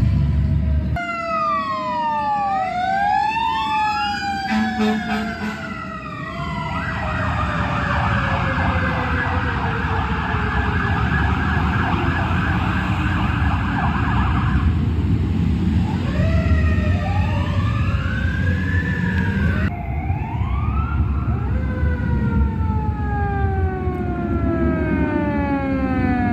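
Fire truck sirens wailing, rising and falling in pitch, over the rumble of the trucks' engines. Partway through, a siren switches to a fast warbling yelp for several seconds before going back to the slow wail. The sound changes abruptly a couple of times.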